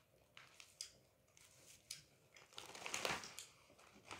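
Faint scattered crunches and crackles of puffy snack chips being chewed, with a louder crinkling rustle of the foil chip bag about three seconds in.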